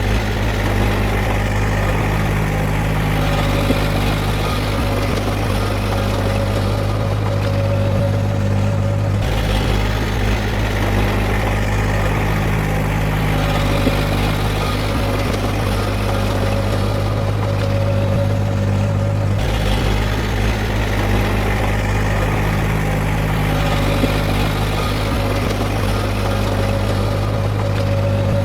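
Heavy earthmoving machinery's diesel engine running steadily with a deep, even hum. The sound shifts abruptly twice, about a third and two-thirds of the way through.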